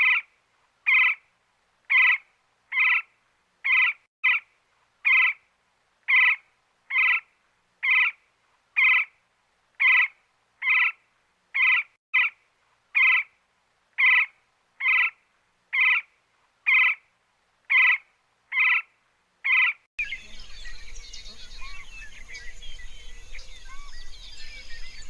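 A bird's short call repeated about once a second, evenly spaced, with no background at all. About twenty seconds in it cuts to an outdoor ambience of small birds chirping over a light hiss.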